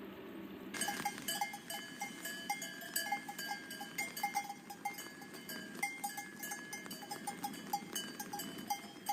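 Small metal bells clanking and jingling in an irregular, busy patter of many strikes, each ringing briefly. They start suddenly just under a second in, cutting off a low rushing sound.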